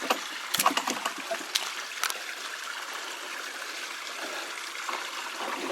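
A creek running over rocks, a steady rush of water, with a few sharp knocks and clicks in the first two seconds.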